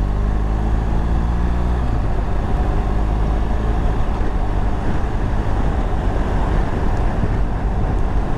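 BMW R1200GS boxer-twin motorcycle engine running, a steady engine note for about the first two seconds, after which a rough rush of wind noise on the camera microphone covers it as the bike rides on.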